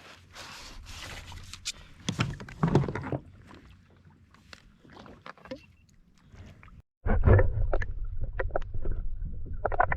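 Water splashing and sloshing around a kayak with sharp knocks on the hull and gear as a hooked fish is brought up alongside. Partway through the sound cuts abruptly to a louder, steady low rumble with more knocks.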